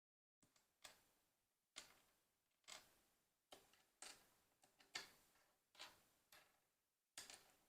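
Plastic LEGO pieces clicking and snapping together as a set is built by hand: about ten light, sharp clicks at an irregular pace, roughly one or two a second.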